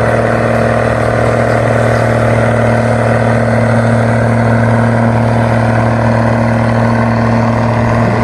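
Tuned Zetor 16245 tractor's six-cylinder diesel engine running hard under full load during a tractor pull, a loud steady drone whose pitch holds even.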